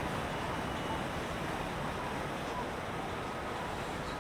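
Steady wash of moving water and wind noise, even throughout, with no distinct event standing out.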